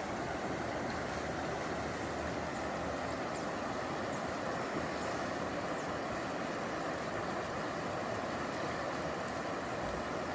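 River rapids rushing steadily, a continuous whitewater roar.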